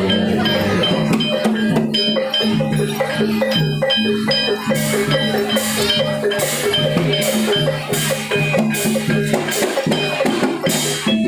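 Javanese gamelan music accompanying a barongan dance: many quick strikes on tuned metal keys and kettle gongs over ringing low gong notes, with drum and rattle-like percussion strokes.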